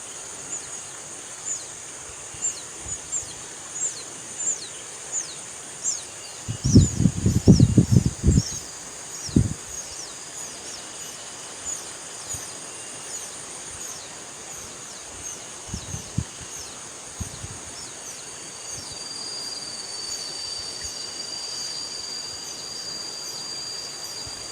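A bird calling a long series of short, high, falling notes, about two a second, over a steady high insect buzz; a steady high whine joins near the end. A cluster of low thumps about a third of the way in is the loudest sound.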